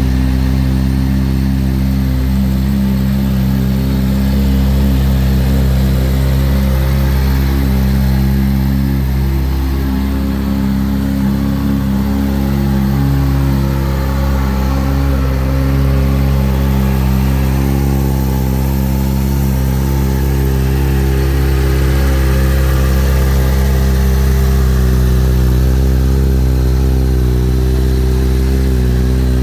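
Kawasaki Z H2's supercharged inline-four engine running steadily, its pitch stepping slightly a few times.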